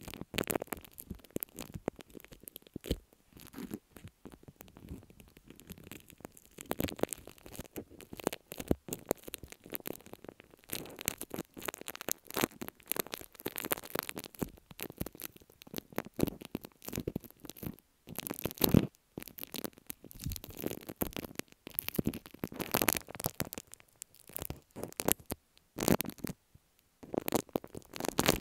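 Slime being squished and worked against an earphone microphone: a dense, irregular run of crackles and clicks.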